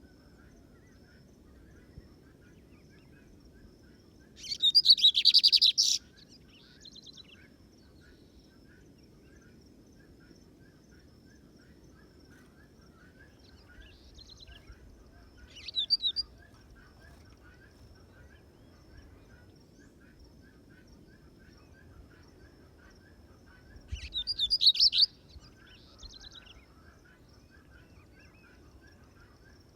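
Lined seedeater (bigodinho) singing three loud, fast rattling trill phrases, the first and last about a second long and the middle one brief.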